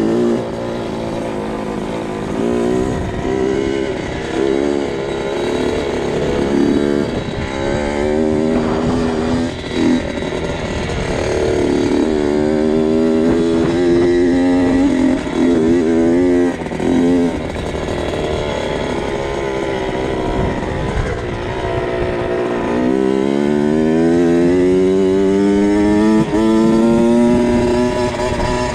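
2002 Kawasaki KX 65's small two-stroke single-cylinder engine being ridden, revving up and down in short bursts of throttle, then a long rising rev about three-quarters of the way through that stays high.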